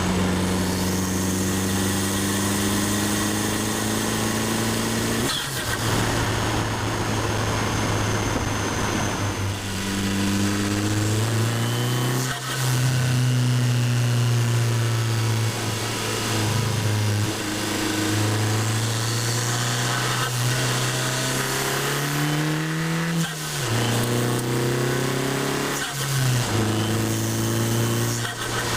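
Turbocharged Abarth 500 esseesse 1.4 four-cylinder engine, heard from inside the car, revving up under acceleration. Its note climbs in pitch, then falls sharply several times, as at gear changes.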